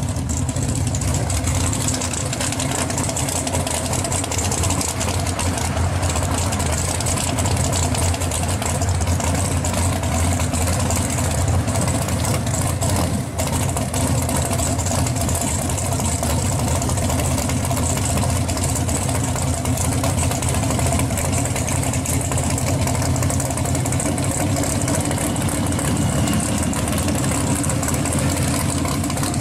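1969 Chevelle pro street car's V8 idling steadily with a deep, even note as the car rolls slowly.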